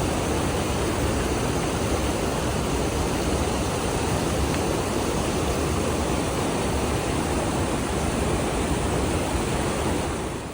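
A steady, loud rushing noise that dies away near the end.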